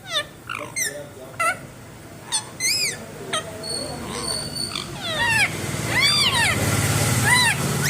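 Indian ringneck parrot calling in short chirps and squeaks, then longer arching squawks from about five seconds in. A low hum grows louder beneath the calls in the second half.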